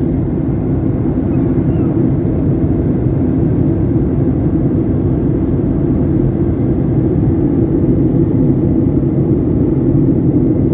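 Steady low drone of an airliner's cabin during descent: engine and airflow noise, even and unbroken.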